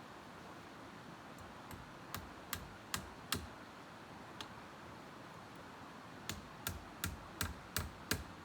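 Sharp knocks, like something being struck: a run of four about two seconds in, then a faster run of about seven starting near the end, two to three strokes a second.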